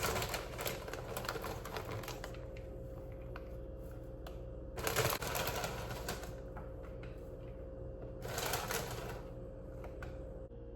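Kitchen food-preparation sounds: three bursts of rapid clattering and crackling, the first about two seconds long, the others about a second in the middle and near the end, over a faint steady hum.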